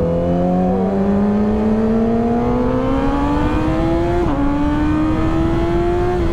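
Yamaha R6's inline-four engine accelerating hard, its pitch climbing steadily, with an upshift about four seconds in before it climbs again.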